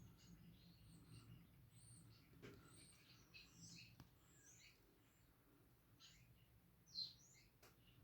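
Faint, busy chirping and twittering of a group of small garden birds at a feeder: many short, high calls one after another, the loudest about seven seconds in.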